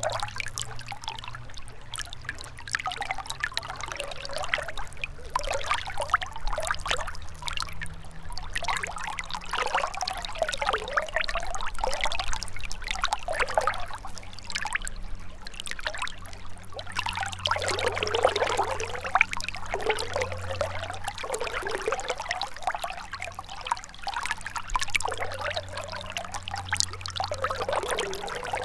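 Gentle river flowing, the water trickling and gurgling steadily with small swells, over a steady low hum.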